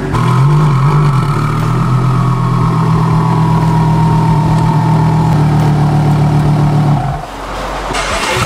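Twin-turbocharged Lamborghini Gallardo V10 idling steadily, with a small rise and fall in revs right at the start and a faint whine that slowly falls in pitch. About seven seconds in the engine note dips, followed by a short burst of rushing noise.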